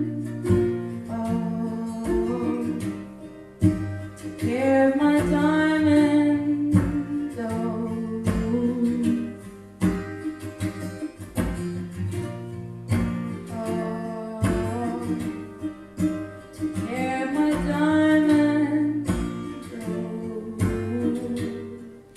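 Singing with acoustic guitar accompaniment: a few long, sliding sung notes over steadily strummed and plucked guitar.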